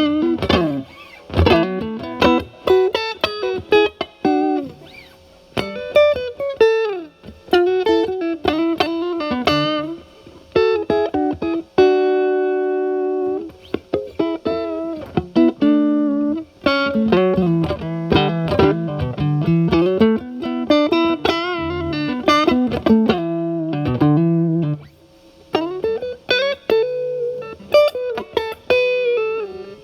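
Fender Stratocaster with single-coil pickups played through a Paul Cochrane Timmy transparent overdrive pedal, gain at about 9, into the clean channel of a Marshall Valvestate amp: lightly overdriven lead lines of single notes with bends. A note rings out on its own for over a second about twelve seconds in, and there are wavering vibrato notes later on.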